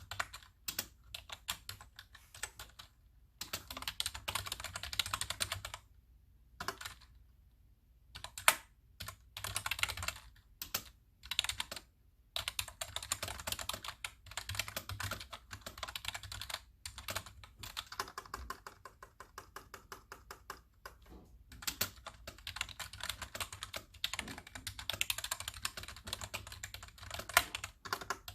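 Touch typing on a computer keyboard: quick runs of keystrokes broken by short pauses, with an occasional single louder key strike.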